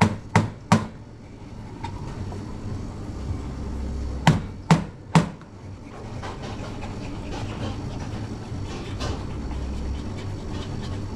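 Espresso portafilter rapped against a knock box to empty the spent coffee grounds: three sharp knocks at the start, then three more about four seconds in, each set evenly spaced under half a second apart, over a low steady machine hum.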